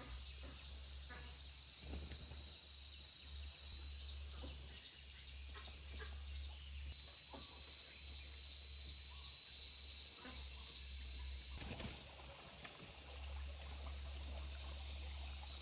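Steady outdoor background: a constant high-pitched hiss over a low rumble, with a few faint taps.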